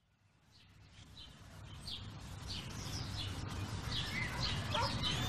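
Short bird chirps repeating about twice a second over a low, steady rumbling background ambience, fading in from silence.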